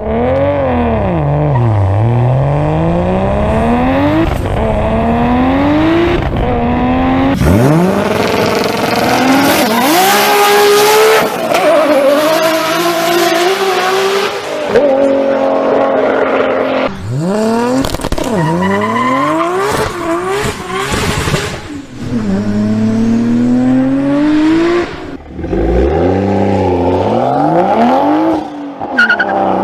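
High-performance inline-six car engines revving hard through the gears, the pitch climbing and dropping again and again, spliced from several clips with sudden cuts between them. A stretch of loud hissing noise comes in about a third of the way through.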